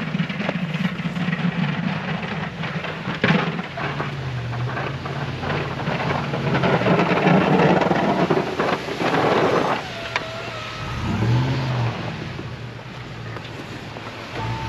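Plow truck's engine running while the salt spreader throws rock salt, a noise like rain over the engine that is loudest in the middle, with the engine pitch shifting about eleven seconds in.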